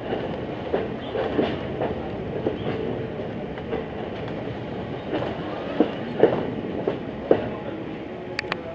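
Passenger car of a steam-hauled train rolling along the track: a steady rumble with irregular clicks and knocks from the wheels on the rails, and two sharp clicks close together near the end.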